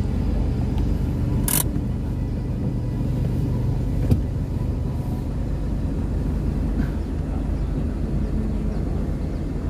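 Car engine and drive rumble, steady and low, heard from inside the cabin while driving slowly through floodwater. A short hiss comes about one and a half seconds in and a click about four seconds in.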